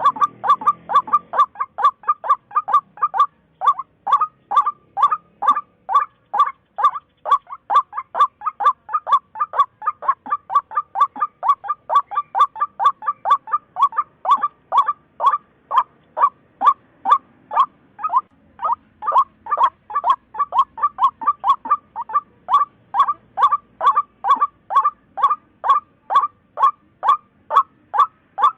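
White-breasted waterhen calling: a long unbroken series of short, sharp notes repeated about three times a second at a steady pace.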